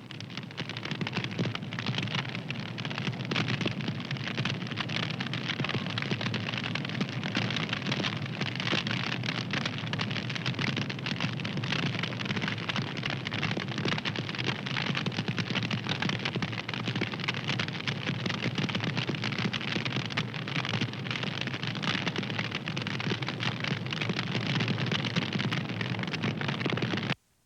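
Wood fire crackling steadily: a dense stream of small pops and snaps over a low rushing hiss. It cuts out to silence for a moment at the very end.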